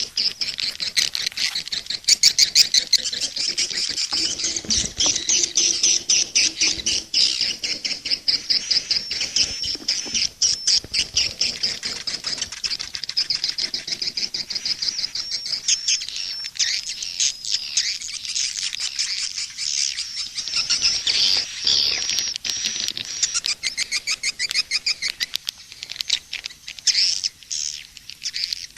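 Edible-nest swiftlets twittering: a dense, unbroken chatter of rapid high chirps and clicks from many birds at once. This is a swiftlet calling-sound (SP) recording, played to lure swiftlets into a nesting house.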